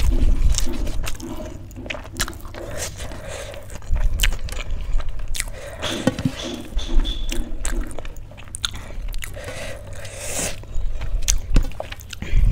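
Close-miked chewing and biting of a mouthful of rice and vegetables: wet, rhythmic chewing with crunchy bites and short clicks, and fingers mixing rice on a steel plate.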